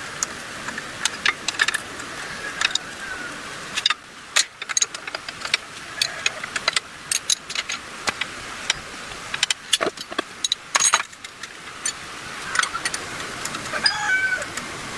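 Irregular metallic clicks and clinks of hand tools and small metal parts being handled while working on a 110cc motorcycle engine, with a quick flurry of clinks about ten seconds in.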